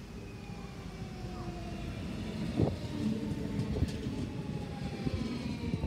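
Copenhagen S-train (DSB electric commuter train) coming closer and growing louder, its motors whining in several steady tones that fall slightly in pitch. A few sharp wheel clacks cut through, the loudest about two and a half seconds in.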